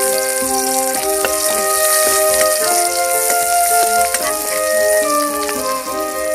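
Sliced red onions sizzling in hot oil in a black wok, a dense, steady hiss. Background instrumental music plays alongside.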